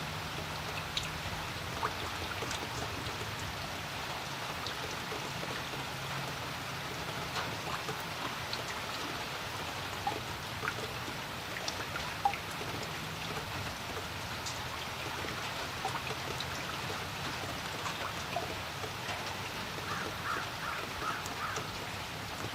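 Steady rain falling on a creek, with many separate drops heard as short sharp ticks over an even hiss. A faint low hum comes and goes underneath.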